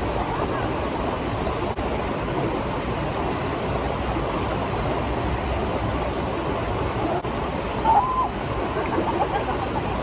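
Steady rush of flowing water from a river or waterfall, with a brief louder sound about eight seconds in.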